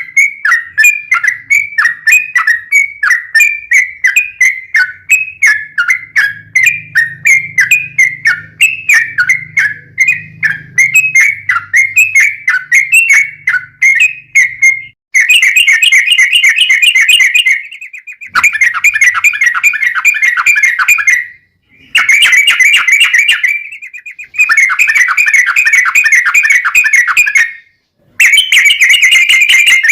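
A trucuk (yellow-vented bulbul) singing loudly. First it gives a string of quick, dipping chirped notes, about two a second. About halfway through it switches to long, fast rolling trills that come in runs of a few seconds with short breaks between them.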